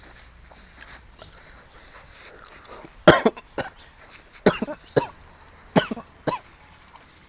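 A man coughing hard, about five sharp coughs in the second half, the first the loudest, set off by the chilli heat of a very spicy papaya salad.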